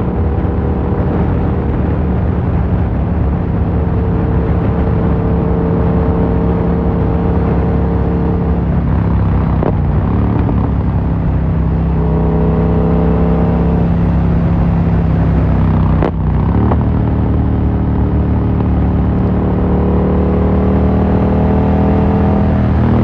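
Yamaha MT-07 parallel-twin engine through an Akrapovic carbon full exhaust, under way and accelerating. Two gear changes, about ten and sixteen seconds in, each followed by the engine note climbing again.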